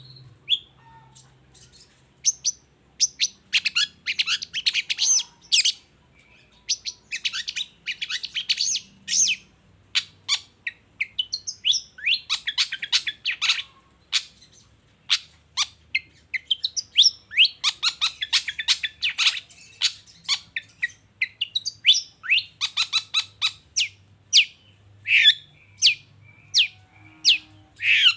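Long-tailed shrike (cendet) singing: quick phrases of chirps, sweeping whistles and harsh notes in a rapid run, broken by short pauses of about a second.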